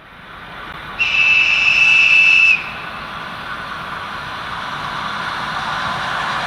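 An approaching Russian electric commuter train sounds its high whistle once, a steady tone lasting about a second and a half, then the noise of the train grows steadily louder as it nears.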